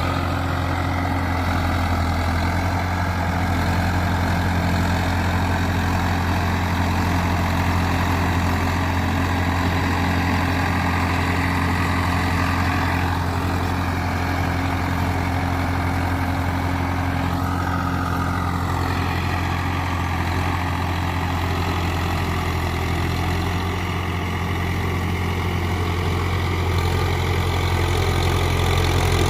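Swaraj 744 FE tractor's diesel engine running steadily with a constant low drone. A higher whine above it shifts in pitch twice around the middle.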